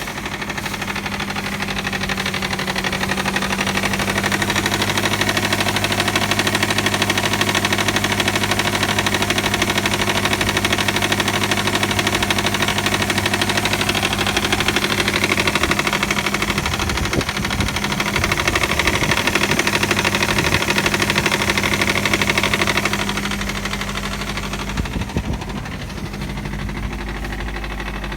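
Subaru EJ257 turbocharged flat-four idling on a cold start, with a loud rapid clacking from the front of the engine. The clacking is a timing belt slapping because of a defective hydraulic timing belt tensioner. The sound grows louder a few seconds in and drops back near the end.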